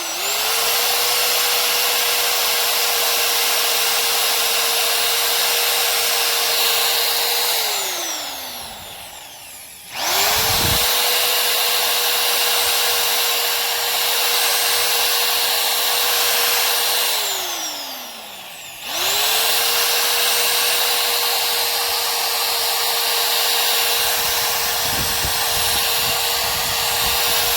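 A high-speed rotary power tool cutting out the old rubber leaf-spring bushings, run in three bursts of about seven seconds, each starting quickly, holding a steady high whine, then winding down slowly as it coasts to a stop after the trigger is let go.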